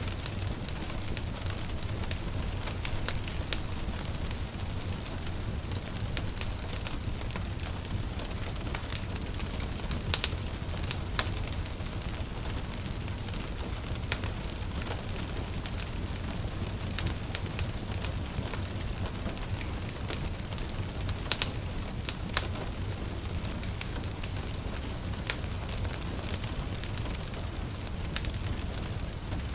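Wood fire crackling, with irregular sharp pops and snaps over a steady low rumble, mixed with a gentle patter of rain.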